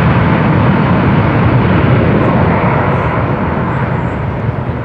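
Jet airliner engine roar, a steady rushing noise that slowly fades over the last couple of seconds.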